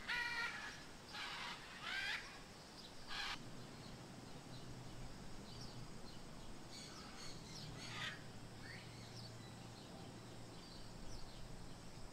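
Faint bird calls from an aviary: four short, harsh calls in the first few seconds, then a couple of fainter ones about eight seconds in, over a faint low hum.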